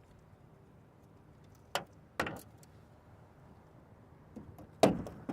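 A few sharp knocks and thumps, two about two seconds in and a louder pair near the end, over a faint steady hum.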